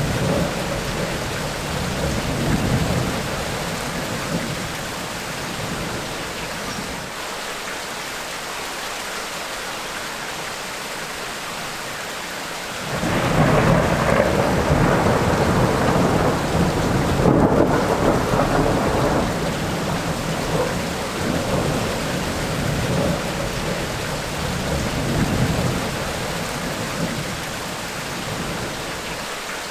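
Tropical rainstorm: steady rain with rolling thunder. The thunder fades to a lull, then a loud peal breaks suddenly about 13 seconds in and rumbles on for several seconds, followed by softer rumbles.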